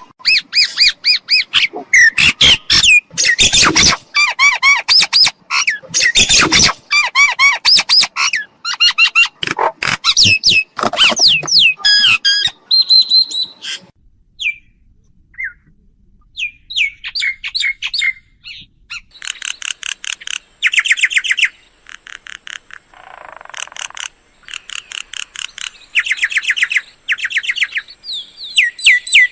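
Mynas calling: a dense jumble of whistles, chatter and harsh notes for about the first twelve seconds, then a short lull, then repeated rapid rattling phrases about a second long each. This is a myna call made to lure mynas in.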